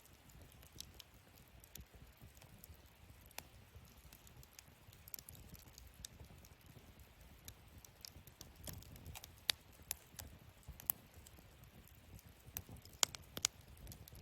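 Wood fire burning in a fire-pit stand, crackling with irregular sharp pops and snaps over a low rumble of flame. A few louder pops come in the second half.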